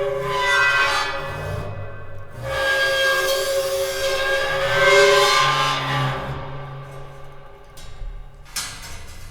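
A bow drawn across a metal plate of a homemade welded metal sound box, giving sustained metallic ringing tones with several overtones that swell twice and fade out after about six seconds. A few sharp clicks and knocks follow near the end.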